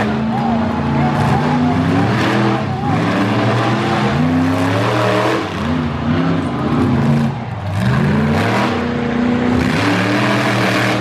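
Monster truck engine revving hard and repeatedly, its pitch climbing and dropping as the throttle is worked, with brief lulls about halfway through and again a little later.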